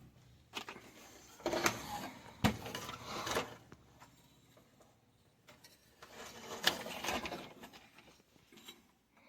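Tools and small parts being handled on a repair bench: irregular clicks and knocks with scraping, rustling spells in two stretches, the sharpest knock about two and a half seconds in.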